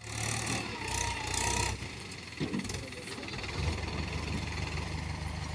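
Heavy diesel engine running steadily at low speed; it drops back for a moment about two seconds in, then picks up again.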